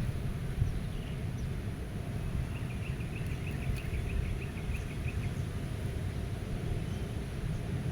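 Wind blowing over the meadow, heard as a steady low rumble. Starting about two and a half seconds in, a bird gives a fast trill of roughly fifteen short high notes lasting about two and a half seconds, and a few single faint chirps can be heard elsewhere.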